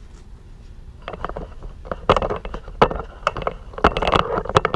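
Parts being handled by hand: a run of irregular clicks and knocks with scraping and rustling, starting about a second in.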